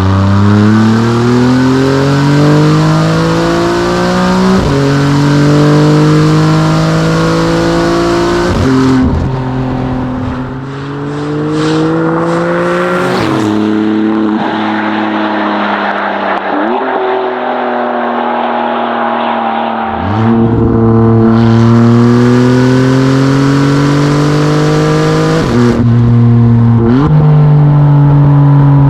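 Maserati MC20's twin-turbo V6 through a Novitec race exhaust, accelerating hard up through the gears: the note climbs and drops sharply at each upshift, about every four seconds. Midway it eases to a lower, steady note for a few seconds, then pulls hard again with quicker shifts near the end.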